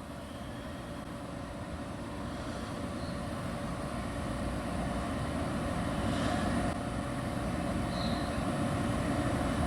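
Steady low rushing rumble that slowly swells louder, with a few faint, short, high bird chirps.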